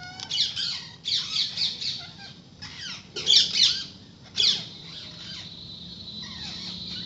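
Several parrots calling together in rapid, harsh chirps and squawks, in four loud bursts over the first four and a half seconds, then quieter scattered calls.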